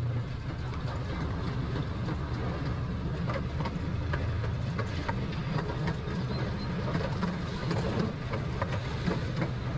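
Miniature zoo train running: a steady low engine hum with the rumble of the ride and occasional light clicks.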